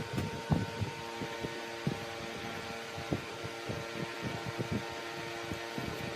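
Large woodworking lathe running with a steady motor hum, and irregular knocking and scraping as a turning tool works the spinning mahogany.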